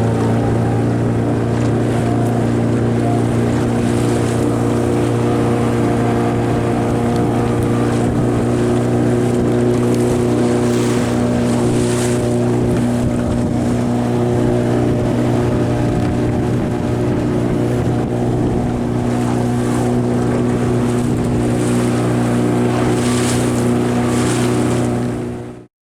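Boat motor running at a steady speed, a constant even drone, with wind hiss on the microphone swelling now and then. The sound cuts off suddenly at the very end.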